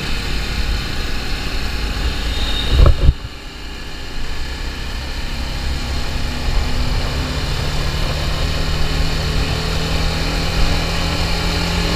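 TVS Apache RR310's single-cylinder engine running as the motorcycle is ridden, with wind rumbling on the microphone. About three seconds in there is a brief loud thump and the sound drops off, then a steady engine note holds.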